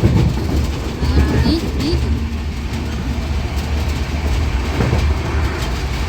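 Steady low rumble of a moving passenger train heard from inside the carriage, with the wheels running on the rails.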